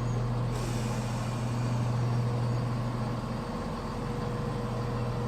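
Class 170 Turbostar diesel multiple unit idling at the platform, its diesel engines giving a steady low hum. About half a second in, a steady hiss of air starts up over the engine sound.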